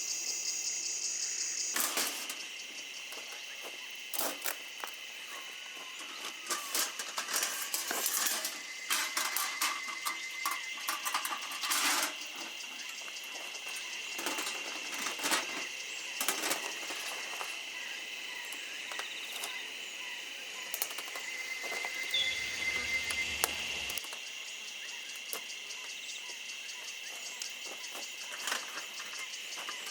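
Steady high-pitched drone of insects, with irregular metallic clinks and knocks of gear being handled, thickest in the first half.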